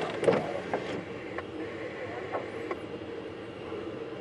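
Freight train cars rolling past with a steady rumble and scattered sharp clacks of steel wheels over the rails, heard from inside a car. A windshield wiper sweeps across about every two seconds.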